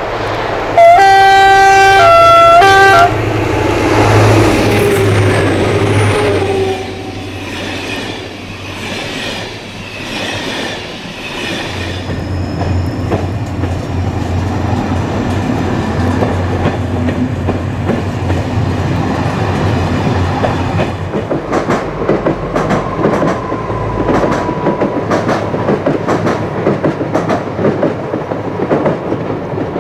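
SNCF diesel locomotive sounding a loud two-note horn about a second in, over its running engine. Later a passing train's wheels clatter rhythmically over the rail joints.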